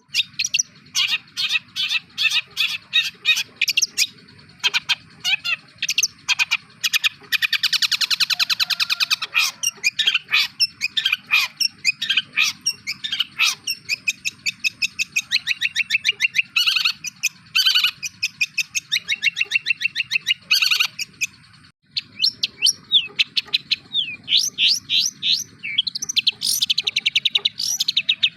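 Long-tailed shrike singing a fast mimicry song, a stream of rapid chirps, sharp calls and trills copied from other birds. The song includes a long buzzy trill about 8 seconds in and another near the end.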